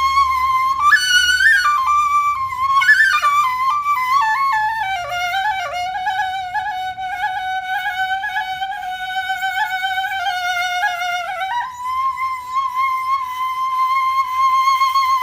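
Background music led by a solo flute: quick ornamented notes at first, then a slow melody of long held notes, dropping lower about five seconds in and rising back up near twelve seconds.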